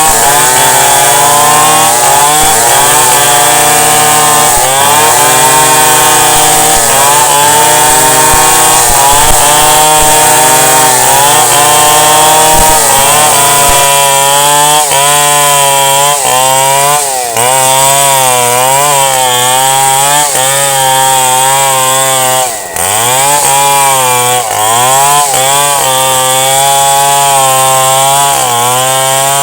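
Chainsaw running under load while cutting a tree, its engine pitch rising and falling as the cut bogs and frees it. About three-quarters through, the engine speed drops sharply for a moment and then climbs back.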